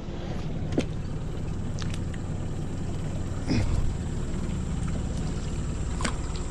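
Boat motor running steadily at low speed, with a few light knocks and clicks over it.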